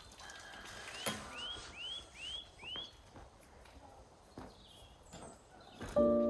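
A small bird calling outdoors: a quick run of about five rising-and-falling chirps, with a few scattered knocks. Piano music comes in suddenly right at the end.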